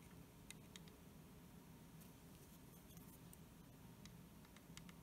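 Near silence: room tone with a few faint, sharp ticks.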